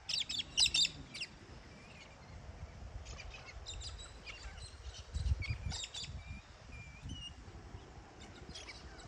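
Parrots calling: a cluster of short, sharp calls at the start and another between about three and six seconds in, with a few brief whistled notes between them. A low rumble is heard about five seconds in.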